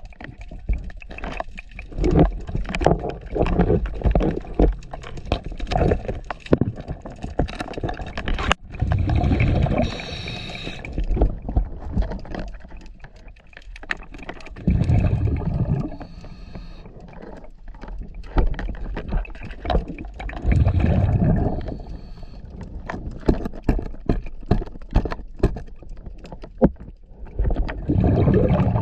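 Underwater scuba regulator exhaust: a diver's exhaled bubbles surge and gurgle for about a second, roughly every six seconds in a steady breathing rhythm. Scattered sharp clicks and crackles run between the breaths.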